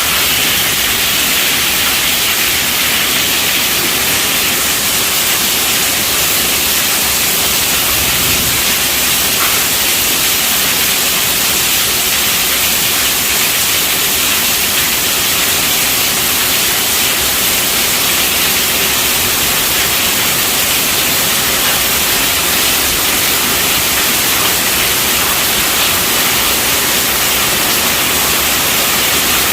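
Steady rainfall, a continuous even hiss.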